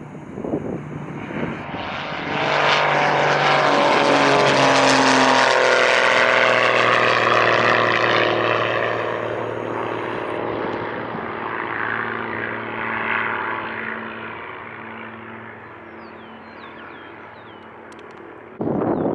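Propeller airplane flying past: its engine and propeller drone swells to a peak, drops in pitch as it goes by, then fades away.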